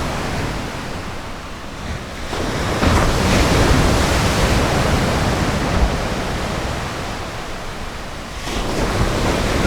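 Ocean surf washing onto a beach, a steady rush of waves that swells as a wave breaks about two and a half seconds in and again near the end.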